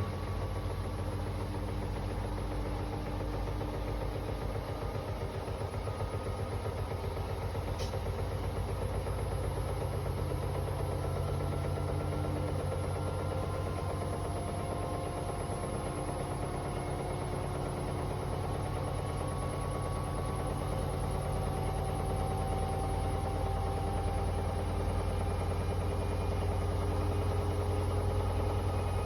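Hoover H-Wash 500 washing machine in its spin cycle, set to 1600 rpm: a steady low drum rumble with a faint motor whine that drifts slowly in pitch, growing a little louder near the end.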